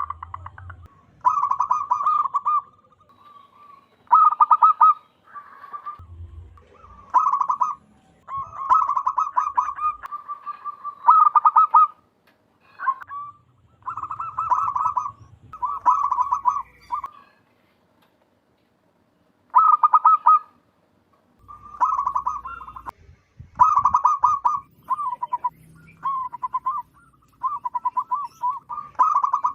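Zebra dove (perkutut) cooing: repeated stuttering, pulsed coo phrases of about a second each with short gaps between them, pausing for a couple of seconds about two-thirds of the way through before resuming.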